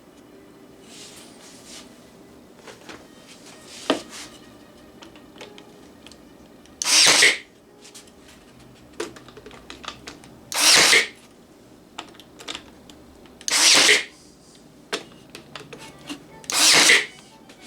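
Brad nailer firing brads into wooden deck planks: four short, sharp shots about three seconds apart, with a few lighter knocks between them.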